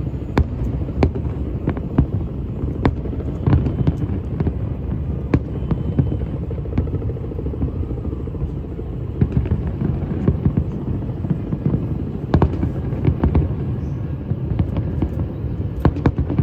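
Fireworks going off: many sharp, irregular bangs and pops over a steady low rumble.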